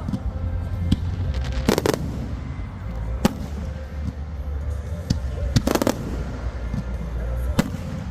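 Aerial fireworks shells bursting in a display: sharp bangs every second or two, some coming in quick clusters of two or three, over a steady low rumble.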